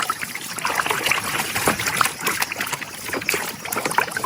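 Water splashing and trickling in irregular bursts as a muddy toy animal is washed by hand.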